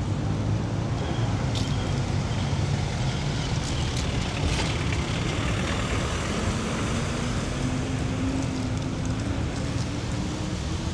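City street traffic: a steady low rumble of vehicle engines, with one engine's pitch rising slowly over the second half.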